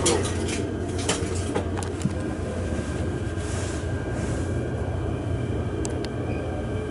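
Steady low hum inside a Limited Express train car standing at a platform, with a few clicks and knocks in the first two seconds. A faint high whine comes in about four seconds in, and two sharp ticks come near the end.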